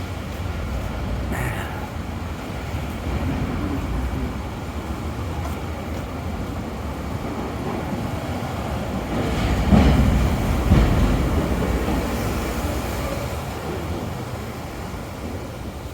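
Low rumble of city street traffic, swelling as a vehicle passes about ten seconds in.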